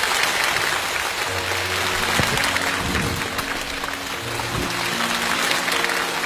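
Studio audience applauding, with background music of held low notes under it.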